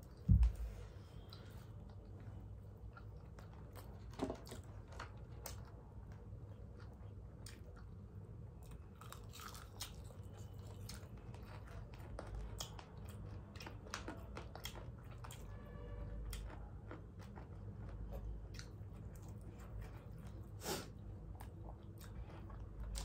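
Two people chewing and biting into crispy fried chicken, with scattered crunches and small sharp mouth clicks over a steady low hum. A low thump about a third of a second in is the loudest sound.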